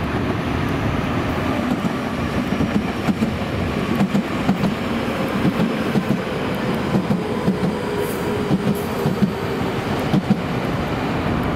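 Nankai 1000 series electric train running along the track, its wheels clattering rhythmically over rail joints, with a faint steady whine underneath.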